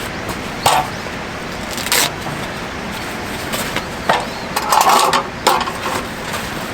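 A few sharp clicks and knocks, the densest cluster a little over halfway through, over a steady background noise.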